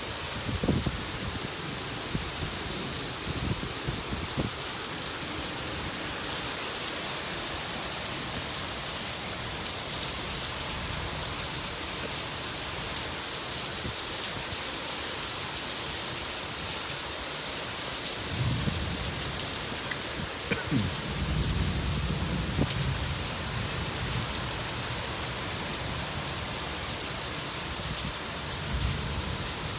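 Heavy rain falling steadily on pavement and grass, an even hiss of downpour. Low rumbles of thunder come in a few times, the loudest about two-thirds of the way through.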